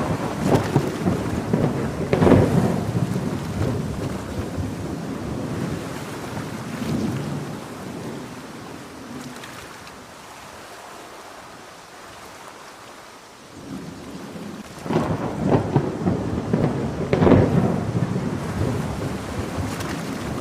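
Thunder rolling twice over steady heavy rain. A long rumble comes in the first few seconds and dies away into a lull, then a second rumble builds about two-thirds of the way through.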